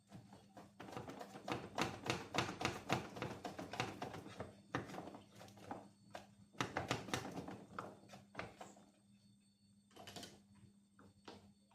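Rapid clicking and clattering of hand tools on metal car parts, in two long spells of several seconds, then one short clatter near the end.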